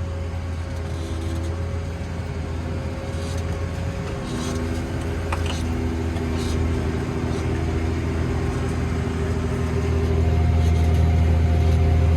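New Holland tractor engine running steadily under the cab. Its note shifts about four seconds in and grows louder near the end as the tractor pulls forward.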